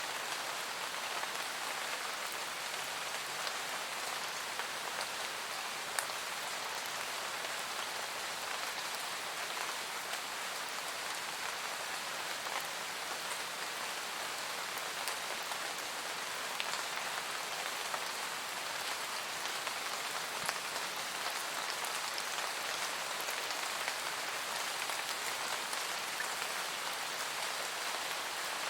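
Steady, calm rain falling: an even hiss of rain with now and then a sharper single drop ticking out of it.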